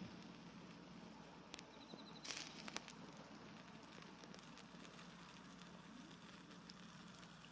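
Wood campfire crackling faintly, with a few sharper pops about two seconds in.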